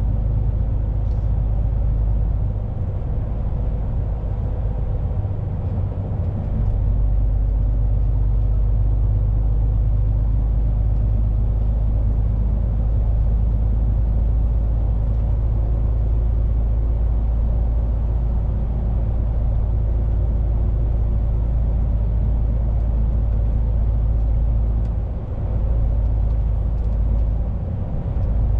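Truck heard from inside the cab while driving: a steady low rumble of engine and road noise, easing briefly a few seconds in and again near the end.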